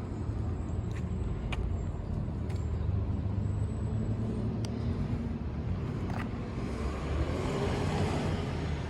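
1960 Triumph Bonneville T120's 650 cc parallel-twin engine running steadily, with some added higher-pitched noise near the end.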